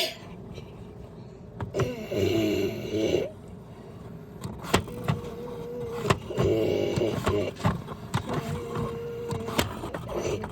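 Washing machine motor running in separate whirring strokes, two loud ones a few seconds apart with a steady hum between them, and scattered clicks.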